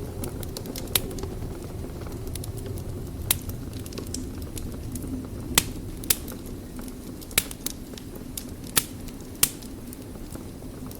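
Wood fire crackling in a fireplace: a steady low rumble of burning with irregular sharp pops and snaps, several of them loud.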